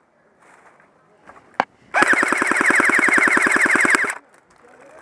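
G4-A1 airsoft electric rifle firing one full-auto burst of about two seconds, a rapid, even rattle of roughly a dozen shots a second that stops abruptly. A single sharp click comes just before the burst.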